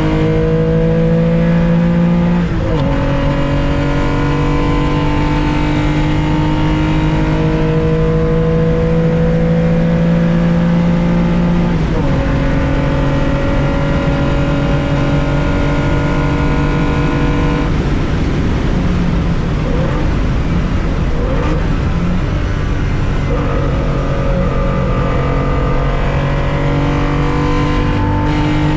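Onboard sound of a 1965 Porsche 911 2.0's air-cooled flat-six at racing speed, pulling hard with the pitch climbing. It upshifts about two and a half seconds in and again about twelve seconds in, then pulls long in the next gear. Past the middle the note breaks up as the car lifts off and slows, and near the end it climbs again as the driver gets back on the throttle.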